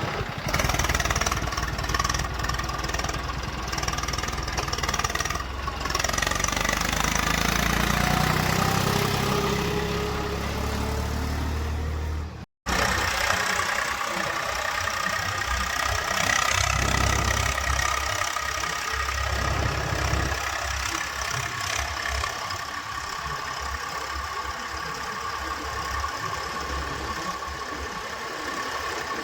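Diesel engines of heavy farm and construction machinery running, the engine note shifting in pitch during the first half. The sound cuts out for an instant about twelve seconds in, then runs on steadily.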